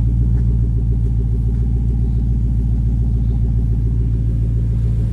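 2014 Mustang GT's 5.0-litre V8 idling steadily with its axle-back mufflers removed, exhaust passing only through the resonators and catalytic converters. The exhaust note is loud and deep.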